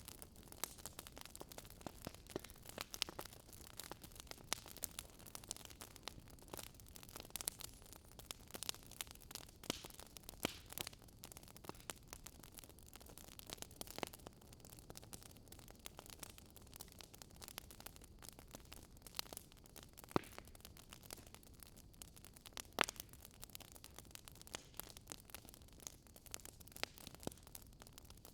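Wood fire crackling: irregular sharp pops and snaps over a soft steady hiss, with a few louder pops standing out, around twenty seconds in and again a few seconds later.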